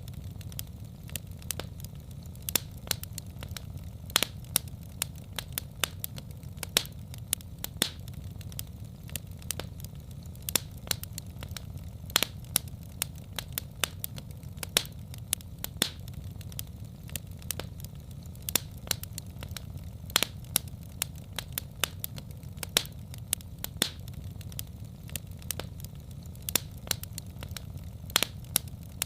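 Wood fire in a fireplace crackling: irregular sharp pops and snaps, several a second with a few louder ones, over a steady low rumble.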